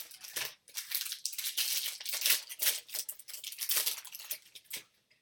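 Crinkling of a foil trading-card pack wrapper being handled and opened: a dense, irregular crackle that stops just before the end.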